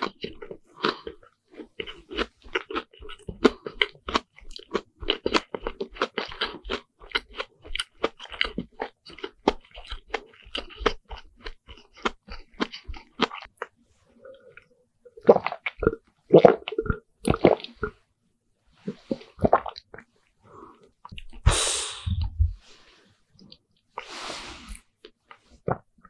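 Close-miked chewing and crunching of a deep-fried bread sandwich: rapid moist clicks and crunches, then a brief pause and a few louder crunches. Near the end come two loud breaths.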